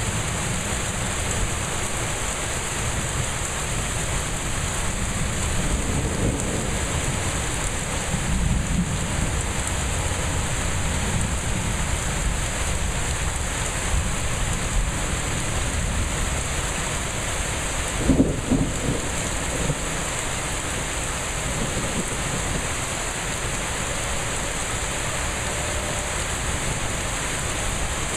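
Heavy thunderstorm rain pouring steadily, with low rumbles of thunder. The loudest is a short burst about eighteen seconds in.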